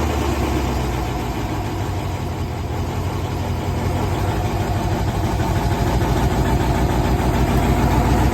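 LS V8 in a Chevy C10, fitted with a Texas Speed Chop Monster camshaft, idling steadily just after catching on its first startup following the cam swap. It runs loudly and grows a little louder toward the end.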